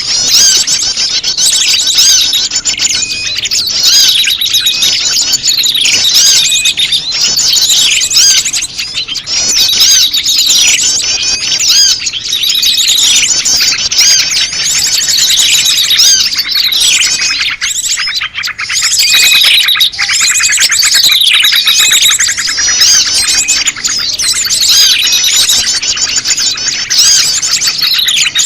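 Bird-lure playback of prenjak lumut calls mixed with a busy chorus of other small birds: loud, dense high chirping and fast trills, with falling call notes repeating about once a second.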